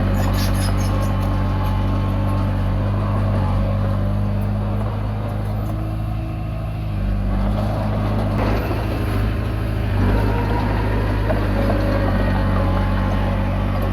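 Komatsu D20P bulldozer's diesel engine running steadily under load, with faint metallic clinks from the tracks. The engine eases briefly about halfway through, then picks up again.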